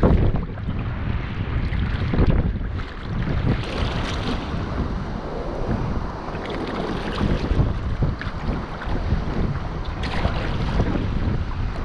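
Wind rumbling on the microphone over water sloshing and splashing around a sea kayak, with a few louder splashes.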